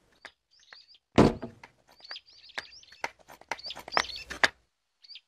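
Small birds chirping in short, wavering high tweets, repeated every second or so. A loud thump comes about a second in, followed by a few sharp clicks.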